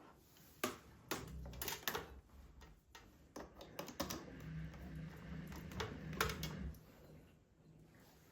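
Irregular light clicks and taps of small objects being handled, over a low hum that stops about seven seconds in.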